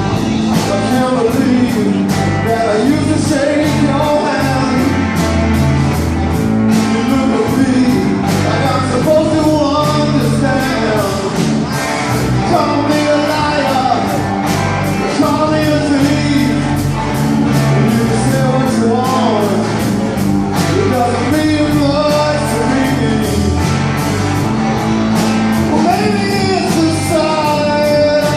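A band playing a rock song live: a singing voice over guitar and drums with a steady beat.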